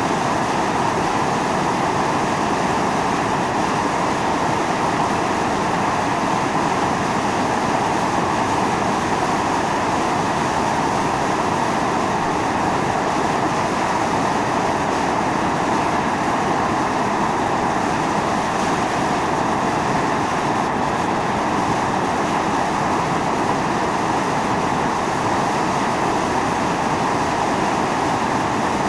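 Volcanic fumarole venting steam and gas under pressure: a loud, steady hiss, centred in the middle range, that does not let up.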